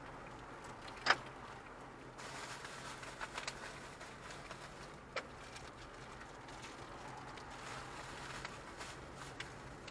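A few sharp clicks or knocks over a low, steady hum: the loudest about a second in, a small cluster around three and a half seconds, and another just after five seconds.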